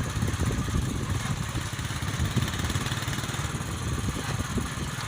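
Honda CD70 motorcycle's small single-cylinder four-stroke engine running steadily.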